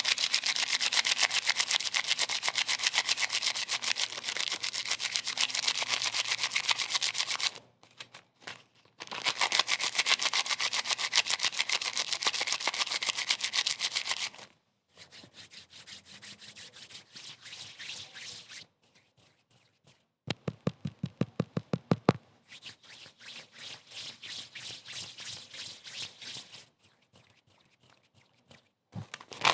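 Rapid, repetitive rubbing strokes, many a second, in stretches broken by short pauses. The sound is quieter after about halfway through.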